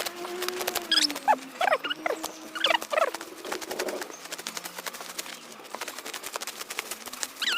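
Handmade sickle cutting dry grass stalks: a dense run of crackling snips and rustles. Short squeaky chirps sweep down in pitch several times, about a second in and again near the end.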